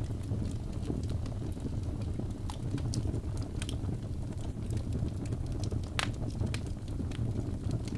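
Crackling fire: a steady low rumble of burning flames with scattered sharp pops and snaps, one louder snap about six seconds in.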